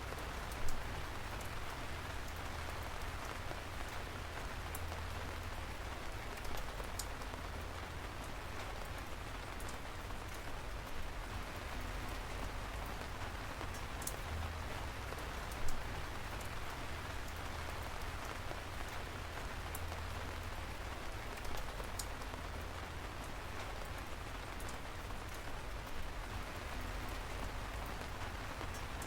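Steady rain, an even hiss, with louder ticks of single drops landing every few seconds.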